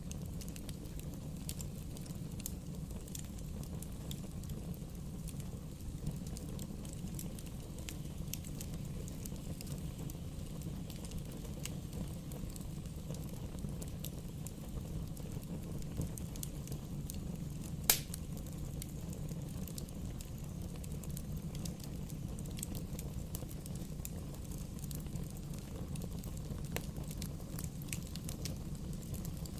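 Bonfire burning, with a steady low rush and scattered small crackles, and one sharp pop about eighteen seconds in.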